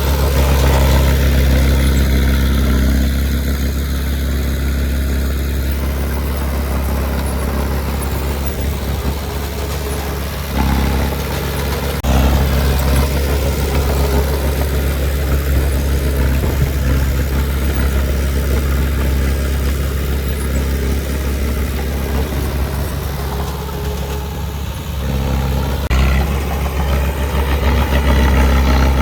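Heavy earthmoving machine's diesel engine running steadily, its note and load changing about ten seconds in, again a little later, and near the end.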